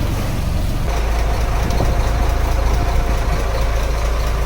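Fishing boat's engine running steadily, its low hum picking up about a second in.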